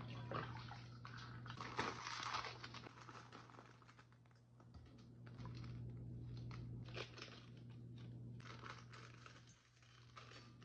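Faint crinkling and rustling of a plastic instant-noodle wrapper being handled and opened, with a few small clicks and a steady low hum underneath.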